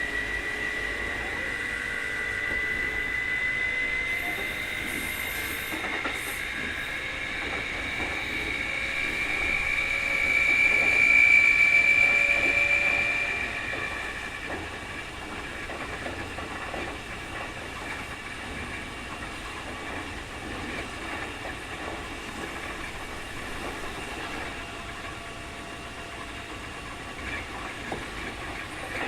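Keikyu 2000 series train with Mitsubishi field-chopper control, heard from inside the car: a high whine, the so-called "jet sound" of an abnormal-noise car, rises slightly in pitch and grows loud around the middle, then fades about halfway. After that comes a steady wheel-and-track rumble with light rail-joint clicks.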